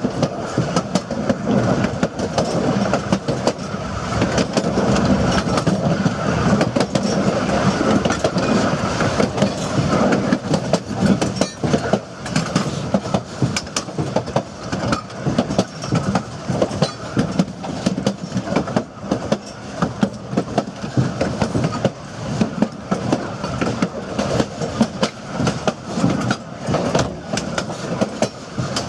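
Narrow-gauge passenger train car rolling along the track, a steady rumble with wheels clicking over rail joints, the clicks coming thicker in the second half.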